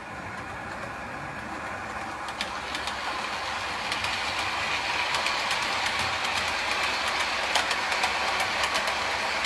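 HO-scale model train, a Walthers F40PH locomotive pulling Superliner cars, running along the track: a steady rolling rush of metal wheels on rail with scattered sharp clicks, getting louder a few seconds in as it comes closer.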